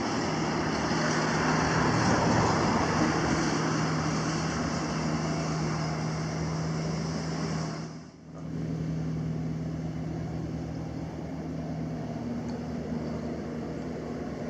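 Ride-on lawnmower engine running steadily with a constant hum, under a steady hiss; the sound drops away briefly about eight seconds in, then carries on.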